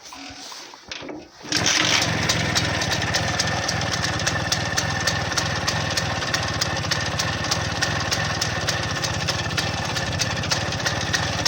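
Tula Muravey scooter's air-cooled two-stroke single-cylinder engine starts about a second and a half in, then runs at a steady idle with a fast, even beat.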